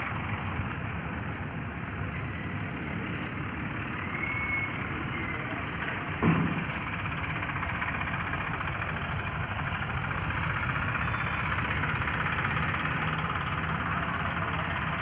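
Steady motor-vehicle running noise, with a single loud thump about six seconds in.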